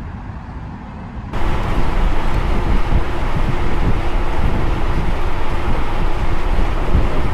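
Wind rushing over the microphone on top of a low engine rumble while under way. It jumps abruptly to a much louder roar about a second in.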